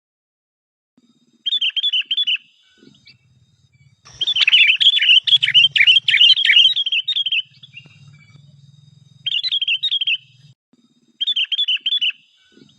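Bulbuls (kutilang) singing in short bubbly chirping phrases, with a longer, louder burst of song in the middle, as if two birds overlap.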